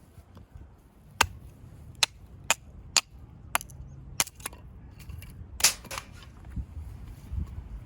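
Dry wood cracking and popping in a campfire: sharp, irregular snaps, about eight of them, with the loudest cluster a little before six seconds in.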